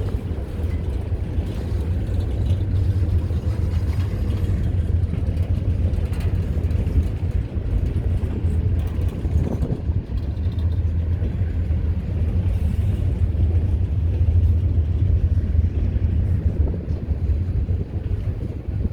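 Pan Am Railways freight train running with a steady deep rumble from its diesel locomotives and rolling cars.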